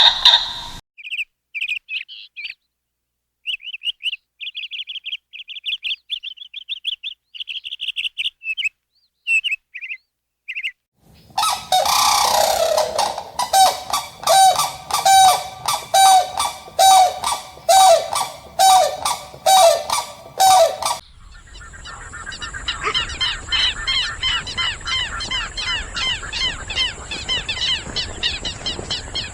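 Bird calls in three parts. First, short high chirps separated by gaps of silence. Then, about eleven seconds in, a loud run of evenly repeated honking calls, like a goose. Then, from about two-thirds of the way through, many small birds chirping together over a steady high hiss.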